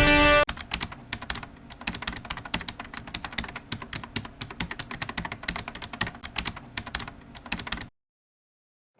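Guitar music cuts off about half a second in, followed by rapid, irregular clicking of computer keyboard typing for about seven seconds, which then stops abruptly into silence.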